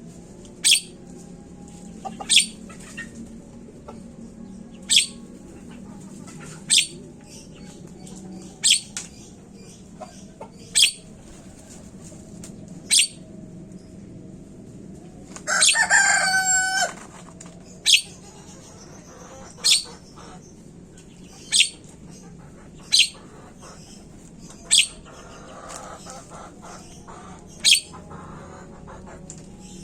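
Birds calling: short, sharp, falling calls repeat about every two seconds, and one longer, louder call lasts about a second and a half around halfway through.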